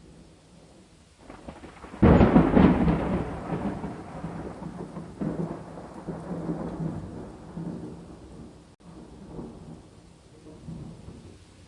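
A thunderclap over steady rain: a faint rumble builds, then a sudden loud crack about two seconds in, followed by rolling rumbles that fade away over several seconds.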